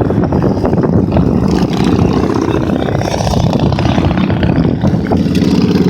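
A stream of motorcycles riding past, their engines running together in a steady, loud rumble.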